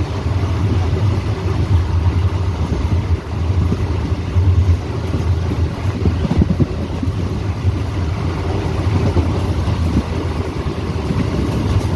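Express train running at speed, heard at an open coach door: a steady rumble of wheels on the rails with wind rushing past.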